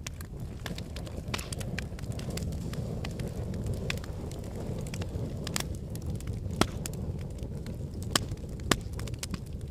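Wood fire burning in a fireplace: a steady low rumble and hiss with scattered crackles, and a few sharper pops from the logs, the loudest about two-thirds of the way in and twice near the end.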